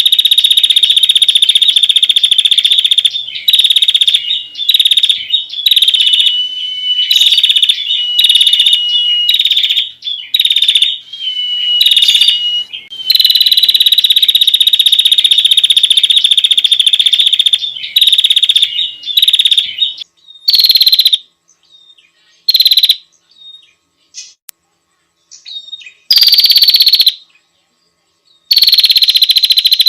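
Female prinia (prenjak) giving long, loud, fast trilling calls, a female calling to the male as used for a bird lure. Some phrases run several seconds; from about 20 seconds in they come as shorter bursts with silent gaps between.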